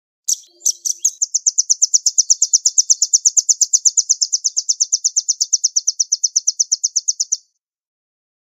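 Velvet-fronted nuthatch singing. A few sharp high notes lead into a long, fast, even trill of about eight notes a second, which stops abruptly near the end.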